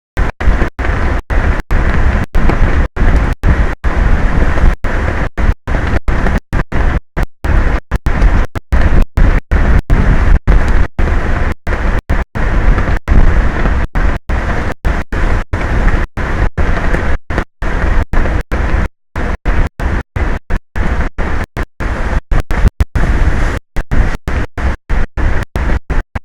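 Strong wind rumbling on the exposed microphone of an offshore platform's camera, loud and dense, cutting out briefly again and again in stream dropouts.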